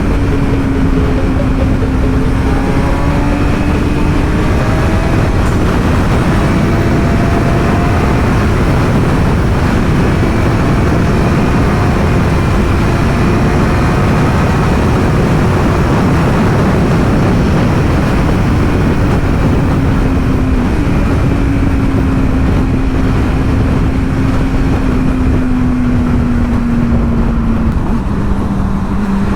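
Motorcycle ridden at a steady cruise, heavy wind noise over a steady engine drone; the engine note drops a little near the end.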